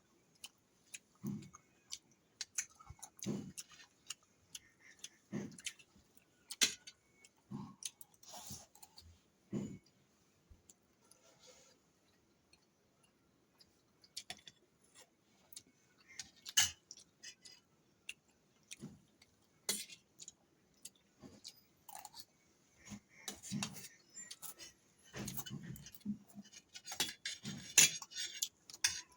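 A person chewing mouthfuls of rice close to the microphone: soft mouth sounds, with many small clicks and taps scattered through. A denser, crackly stretch of eating noise comes near the end.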